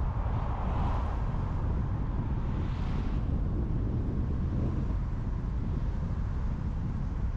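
Car driving at road speed: steady rumble of tyres and wind, with two brief swells of hiss about one and three seconds in.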